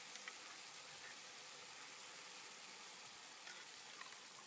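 Chicken pieces frying in a pan: a faint, steady sizzle, with a few faint light clicks in the second half.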